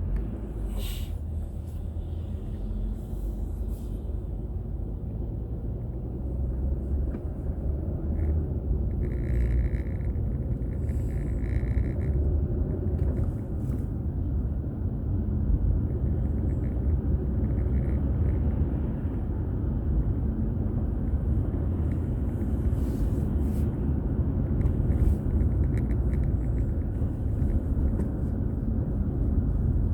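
Steady low rumble of a car's road and engine noise while driving, heard from inside the cabin; it grows louder about seven seconds in as the car picks up speed.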